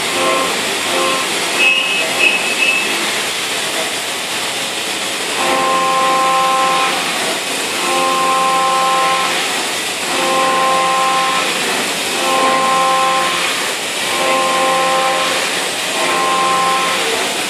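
CNC mill's 20 mm three-flute end mill trochoidal milling 6082 aluminium at 8,000 rpm. A pitched cutting tone comes and goes about every two seconds as the cutter loops in and out of the cut, over a steady hiss. A brief high squeal comes about two seconds in.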